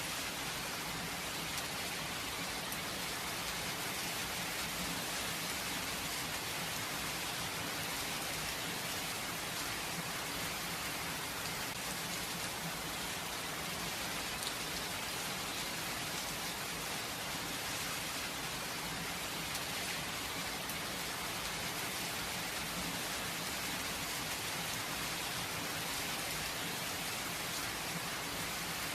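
Steady rain falling, an even hiss of many drops on surfaces with no thunder.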